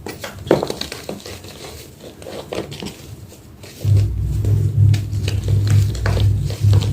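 Homemade gym chalk block being crushed and crumbled, crackling and crunching in irregular bits. About four seconds in, a loud steady low hum starts underneath and keeps going.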